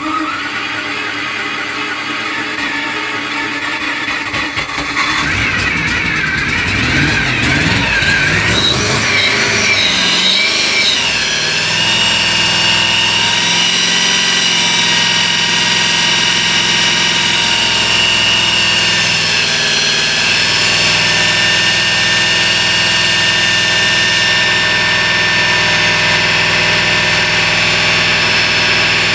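MerCruiser 350 small-block V8 marine engine running. It gets louder about five seconds in, its pitch rising and falling unevenly for several seconds, then it settles into a steady run.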